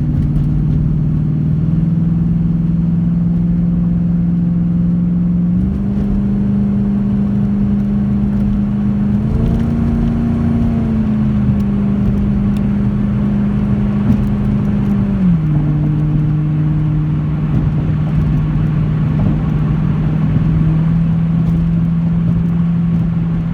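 2007 Ford Mustang GT's 4.6-litre V8 running hard at high road speed, with road noise underneath. The engine note holds steady, steps up in pitch about six seconds in, climbs a little higher around ten seconds, then drops back down about fifteen seconds in.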